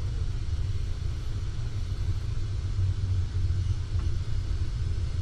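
Steady low rumble of a PKP Intercity Express train running along the track, heard from inside the carriage, with a faint click about four seconds in.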